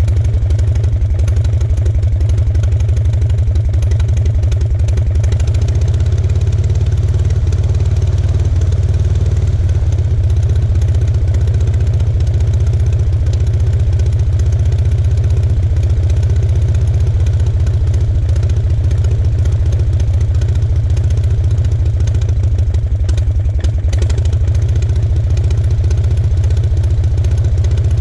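Aeronca C2's light aircraft engine running steadily, propeller turning, on a ground run during engine tuning, with a rapid, even low-pitched beat. The level dips slightly about 23 seconds in.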